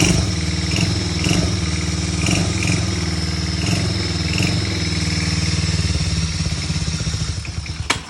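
Mini quad's small engine idling steadily with its re-welded exhaust, then cutting off abruptly near the end.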